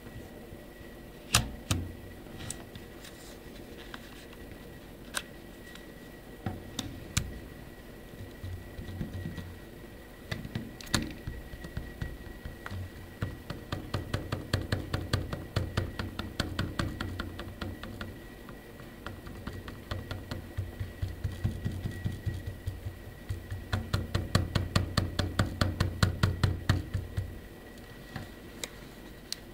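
Nokia N85 slider phone's sliding mechanism clicking and rattling as the phone is handled. A few single clicks come first, then two long runs of fast rattling at several clicks a second, one in the middle and one toward the end. The rattle is the sign of play in the slider.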